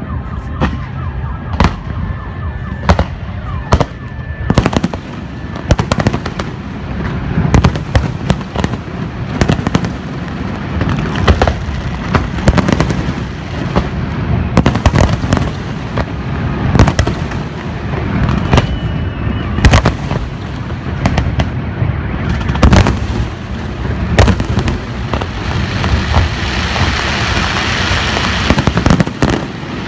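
Fireworks display: a dense, irregular barrage of bangs from bursting shells and launches. A thick crackling hiss builds near the end as glittering crackle stars burst.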